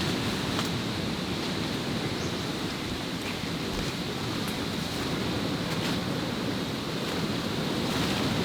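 Steady rushing roar of an unseen waterfall, with a thin high steady tone above it.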